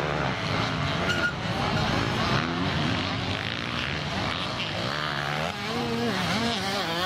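Several motocross bikes' engines running together on the track, their pitch rising and falling as riders work the throttle and shift, with one bike standing out near the end as its revs dip and climb.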